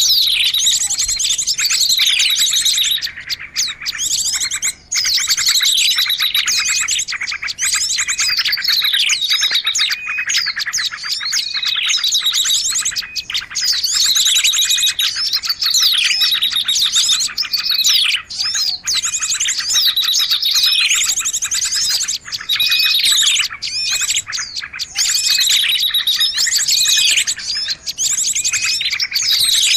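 Bird-lure recording of small birds calling: dense, unbroken high-pitched chirping and chattering, with falling trills repeating every second or two.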